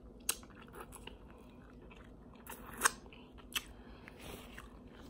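Close-up chewing of a mouthful of crunchy taco nachos: quiet mouth sounds with a few short, sharp crunches scattered through, the loudest about three seconds in.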